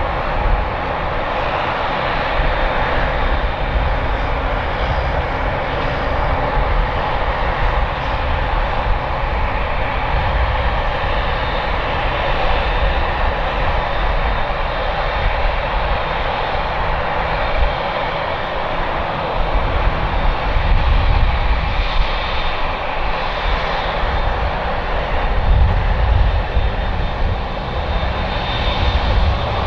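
Airliner jet engines running loud and continuous: a dense roar with a faint high whine, the low rumble swelling twice in the second half.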